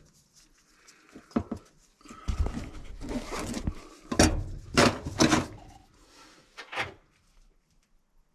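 Metal clanks, knocks and scraping from threaded gas pipe and fittings being handled and screwed together. A stretch of scraping comes about two seconds in, then several sharp knocks, the loudest between four and five and a half seconds in.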